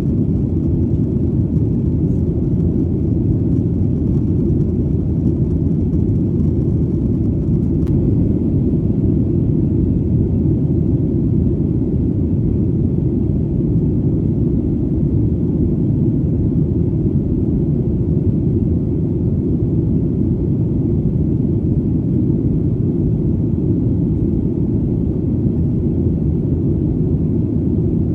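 Steady low rumble of an airplane in flight, an even deep drone with no change in pitch or level.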